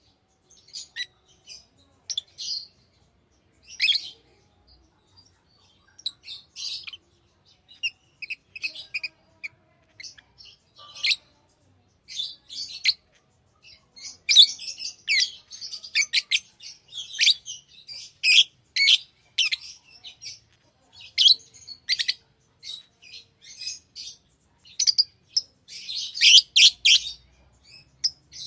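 Pet lovebirds chirping: short, sharp high-pitched calls, scattered at first and coming thick and fast from about halfway through.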